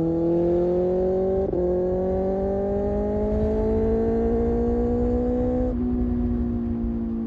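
Kawasaki Ninja ZX-6R's inline-four engine pulling through the gears: the revs climb, a quick upshift about a second and a half in, the revs climb again, then another shift late on after which the revs ease slowly down. Wind rush on the microphone runs underneath.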